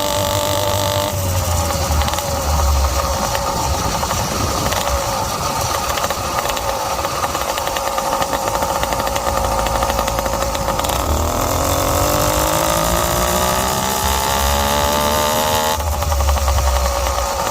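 Zeda YD100 two-stroke engine of a motorized bicycle, running under way. Its pitch drops about a second in, dips again about eleven seconds in and climbs steadily for several seconds as the bike speeds up, then falls back. The carburetor is set rich, which the owner says makes it four-stroke in the medium-to-top range, and wind rumbles on the microphone.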